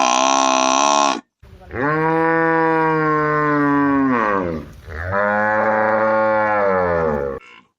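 Cows mooing: a moo cut off about a second in, then two long moos of about three and two and a half seconds, the first dropping in pitch at its end. The clips are separated by abrupt breaks.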